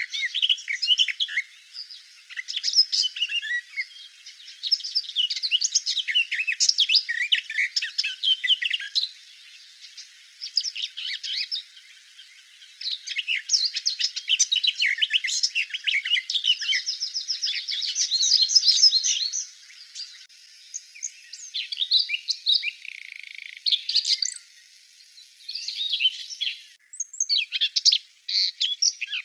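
Garden warbler singing long, continuous warbling phrases of several seconds each, with short pauses between them. About 20 seconds in, the song changes to the shorter, sparser phrases of a common whitethroat.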